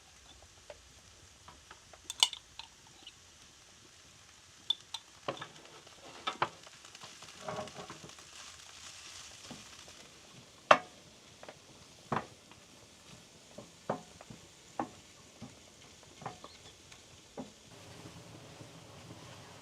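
Cooking sounds: irregular light clicks and knocks, like utensils against cookware, about a dozen scattered through, over a faint sizzle.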